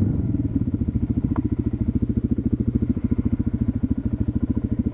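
Motorcycle engine idling with a steady, even low pulse, about a dozen beats a second.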